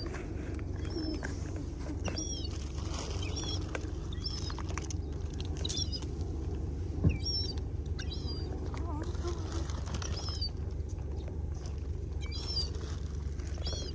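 Small birds chirping: short, high calls repeated about once a second over a steady low rumble. There is one sharp click about seven seconds in.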